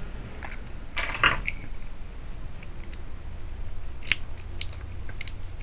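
Small metallic clicks and clinks from a car trunk lock cylinder and its parts being handled: a quick cluster about a second in, then two sharp clicks a half second apart about four seconds in.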